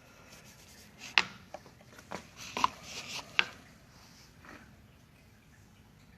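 Small hard objects being handled on a work surface: a handful of sharp clicks and knocks, the loudest about a second in and near the middle, with some rubbing and scraping between them.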